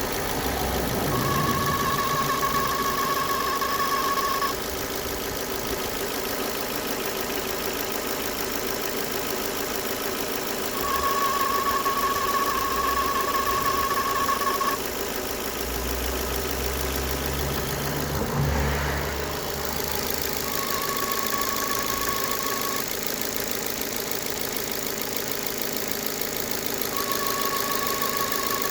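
2009 Ford Fiesta 1.4 Zetec's four-cylinder petrol engine idling, with a high, steady whine from around the alternator. The whine comes and goes, sounding for a few seconds at a time, four times.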